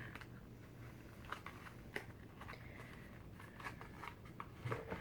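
Faint crinkling and scattered clicks of a firework package being handled and opened from the bottom.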